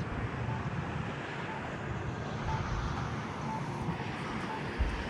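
Steady road traffic noise with a low rumble, and a faint short high beep repeating about once a second.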